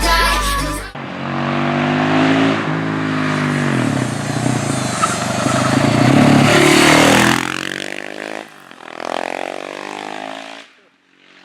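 KTM 690 single-cylinder motorcycle engine revving, its pitch rising and falling through the gears, loudest in a high rev about six to seven seconds in, then dropping, revving once more and fading out near the end.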